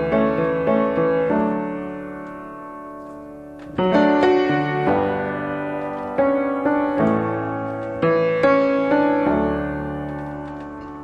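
Piano chords playing a song's intro: quick repeated notes at first, then a new chord struck roughly every two seconds and left to ring and fade.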